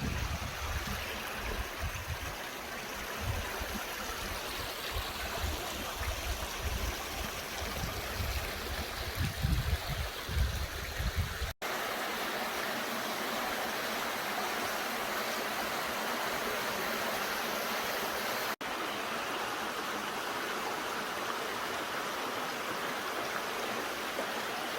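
Mountain stream water rushing and splashing over rocks in a steady flow. Low rumbling on the microphone is heard through the first ten seconds or so, and the sound jumps at two edits, about 12 and 19 seconds in.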